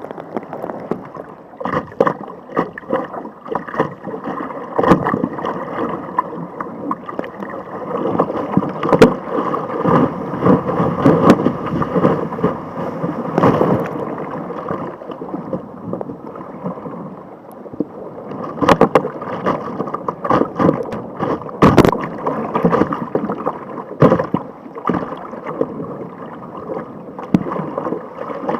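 Sea water sloshing and splashing around a kayak paddled through surf, a steady rushing wash broken by frequent irregular knocks and slaps.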